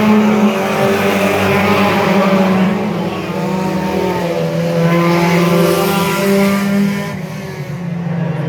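Several stock car engines racing together, their pitches rising and falling as they accelerate and ease off through the corners.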